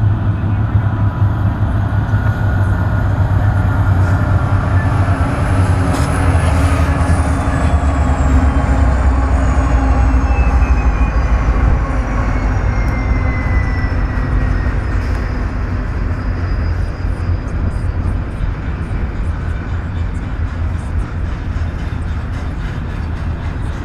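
Union Pacific freight train with diesel locomotives passing close by: a heavy low rumble with high tones that fall in pitch as it goes past, loudest near the middle and easing off toward the end.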